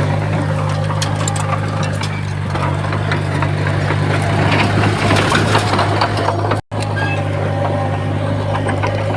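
Komatsu bulldozer's diesel engine running with a steady low drone and scattered light clanks. The sound cuts out for a split second about two-thirds of the way through, then carries on.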